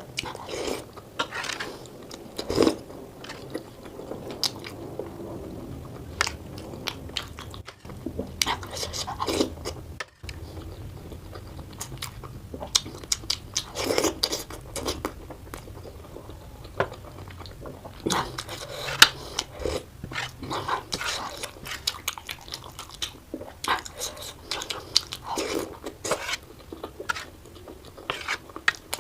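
Close-miked mouth sounds of someone biting and chewing momo dumplings, with many quick wet smacks and clicks, sped up to double speed.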